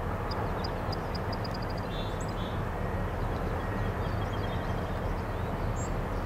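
CN SD70M-2 diesel-electric locomotive with its 16-cylinder EMD 710 engine running steadily with a low, even rumble, with a series of faint high chirps in the first two seconds and again around four seconds in.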